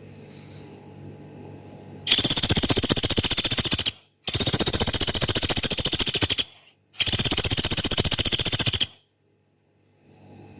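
Pelatuk beras, a small woodpecker, giving three long, fast, high rattling calls of about two seconds each with short gaps between, the long coarse rattle the recording is made to teach.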